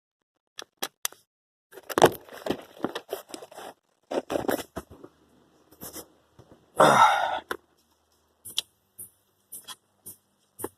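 Scattered clicks, knocks and scraping from parts and tools being handled, with brief louder rustling bursts about two seconds in and again about seven seconds in.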